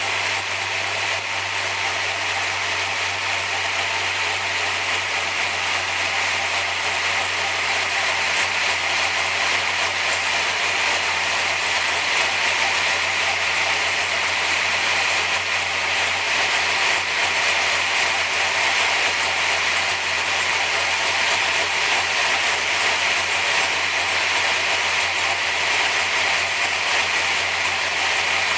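440 cubic inch small-block Chevrolet V8 idling steadily on an engine dyno, with a loud, even, ratchet-like mechanical clatter and no revving.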